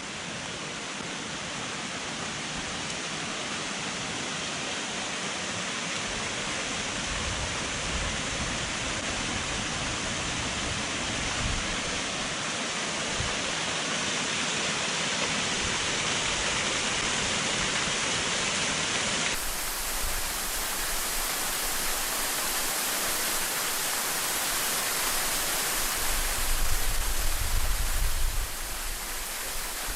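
Steady rush of Funangyo Waterfall's falling water, slowly growing louder, with strong wind buffeting the microphone in low rumbling gusts, heaviest near the end.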